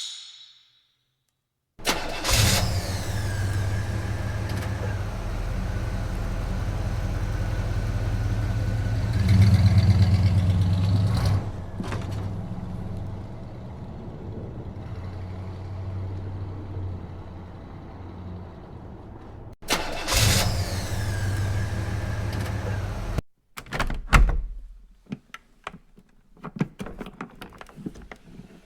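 A motor vehicle engine starts with a burst about two seconds in and runs with a steady low hum, growing louder for a couple of seconds before easing off. It starts again just after the middle and cuts off suddenly, followed by a scatter of clicks and knocks.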